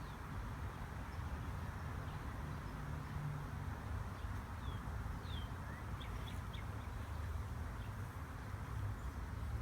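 Steady low hum of a honeybee swarm milling at the entrance of a nuc box as the bees go in, with a few short, high bird chirps in the middle.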